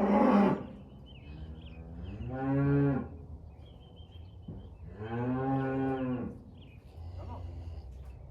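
Cattle mooing: two low calls, the second longer, after a short loud noisy burst at the very start.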